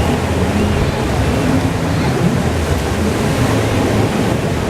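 Steady rush of wind buffeting the microphone over rushing water, with a low rumble underneath, as heard aboard a moving boat.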